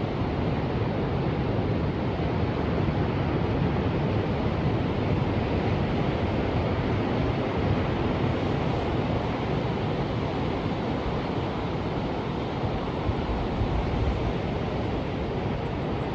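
Ocean waves and surf: a steady, even wash of noise, heaviest in the low end.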